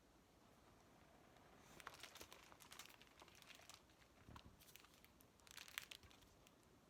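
Near silence: faint rustling and a scattering of small clicks, the sound of light handling, heard most around a couple of seconds in and again near the end.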